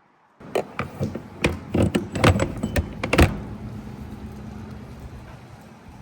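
A quick run of sharp clicks and clunks at a gas pump, the handling of the fuel nozzle and filler, followed by the steady low hum of the pump running as fuel flows into the tank.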